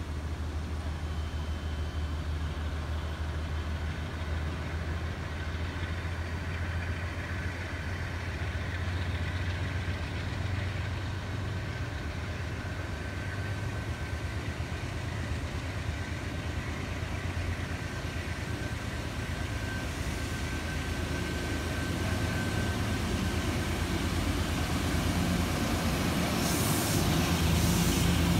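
A Metro-North push-pull train of Shoreliner coaches pulls away, pushed by its P32AC-DM diesel locomotive. There is a steady low engine hum and, through the middle, a thin steady high whine. The train grows louder near the end as the coaches roll past close by.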